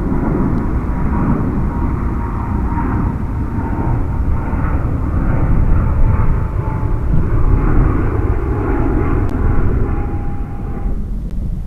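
Jet airliner's engines at takeoff power, a loud rumble with a thin whine that slowly falls in pitch as it passes. The sound stops abruptly near the end.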